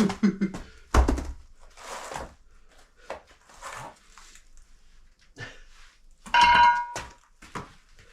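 Dumbbells being handled and set down: a heavy thunk about a second in, a few lighter knocks, then near the end a metal clank that rings briefly.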